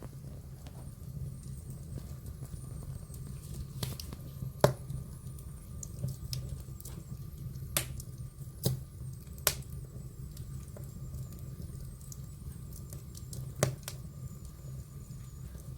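Wood fire burning in a fireplace, giving about half a dozen sharp, scattered crackles and pops over a steady low hum.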